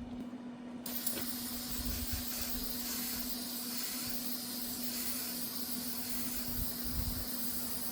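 Aerosol can of brake cleaner spraying in one long continuous hiss, starting about a second in.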